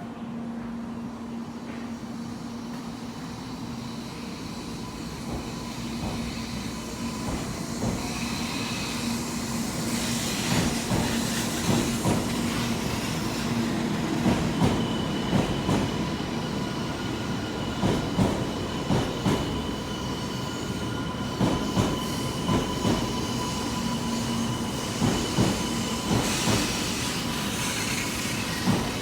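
Shinkansen Hikari Rail Star train (700 series) running on the line. A steady hum grows gradually louder, with repeated knocks of the wheels on the track from about a third of the way in and a thin high whine through the second half.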